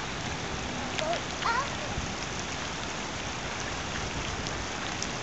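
Steady rain falling, an even hiss of drops on wet ground. A couple of faint high chirps come through about a second in.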